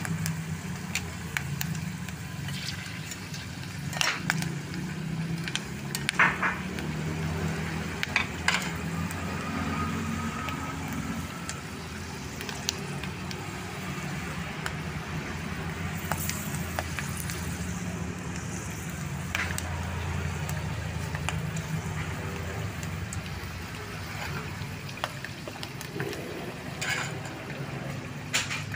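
Jengkol slices frying in oil in a metal pan over a wood fire, with steady sizzling and bubbling. A few sharp clicks come about 4, 6 and 8 seconds in and twice near the end, over a steady low hum.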